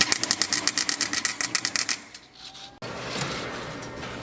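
Chicago Electric wire-feed welder crackling as it lays a bead on a steel exhaust pipe, in rapid sharp pulses about ten a second. The crackle stops about two seconds in, and a steady hiss takes over near the end.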